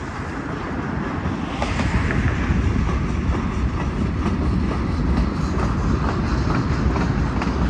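Norfolk Southern mixed freight train rolling past: a steady, heavy rumble of the cars with wheels clicking over rail joints.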